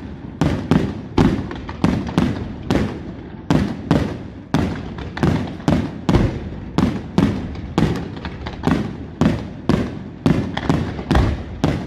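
Aerial fireworks shells bursting in a rapid barrage, about two sharp bangs a second, each followed by a rumbling echo.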